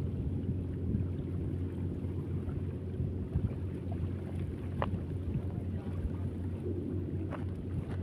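Steady low mechanical drone with wind noise on the microphone, and two faint clicks, about five and seven seconds in.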